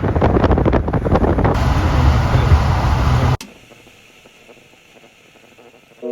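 Wind buffeting a phone microphone outdoors: a loud, gusty rumble with hiss that cuts off suddenly about three and a half seconds in, leaving a quiet steady background.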